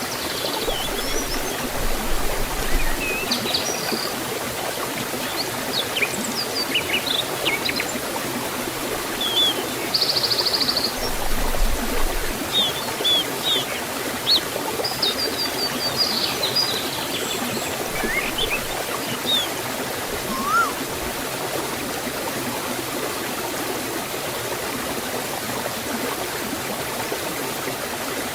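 Forest stream and waterfall flowing in a steady rush, with small birds chirping and trilling over it for most of the stretch; the birds fall quiet in the last several seconds, leaving only the water.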